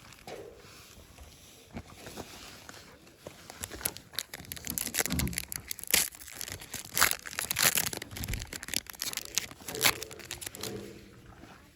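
Plastic and foil wrapping of a Pokémon card pack being crinkled and torn open. The crackly rustling gets loud and busy in the middle stretch, then eases off near the end.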